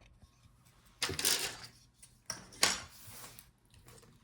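Laptop parts being handled on a work surface: a click, then two short stretches of scraping and clattering about a second in and again near three seconds, with a light knock between them.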